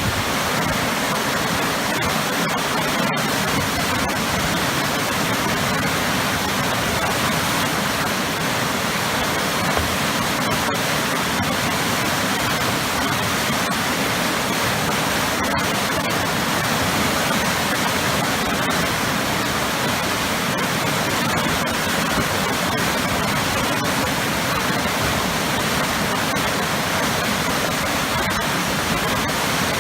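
Waterfall with powerful, churning water, making a steady, unbroken rush.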